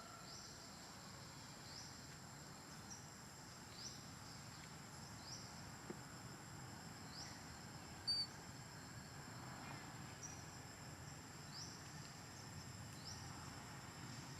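Faint outdoor insect sound: a steady high-pitched drone with short rising chirps repeating about every second and a half. A single sharp click a little past the middle.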